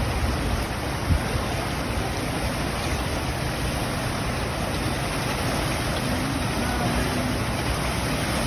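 Steady rushing of water, with no separate events standing out.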